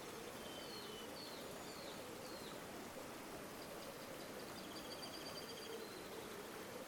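River water flowing steadily with a low gurgle, and small birds calling over it: a few short chirps in the first couple of seconds, then a quick trill about five seconds in.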